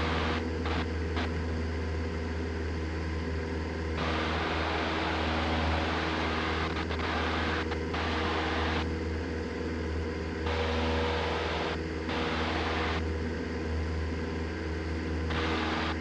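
Cessna 172 engine and propeller running steadily at full climb power, heard inside the cockpit as a deep steady drone. A rushing hiss over it cuts out and comes back several times.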